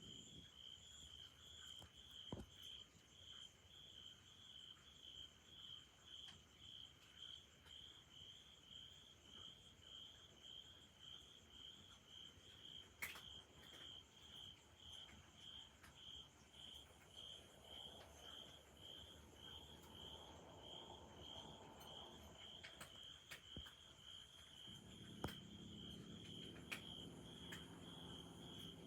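A cricket chirping faintly and steadily, about two chirps a second, with a few soft clicks.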